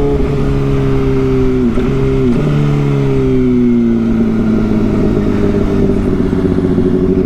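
Motorcycle engine running under way. Its pitch dips briefly about two seconds in, then falls gradually and holds steady.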